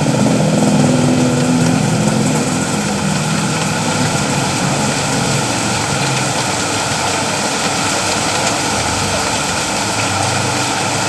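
Steady rain falling, with a motor vehicle's engine running under it that fades after the first few seconds.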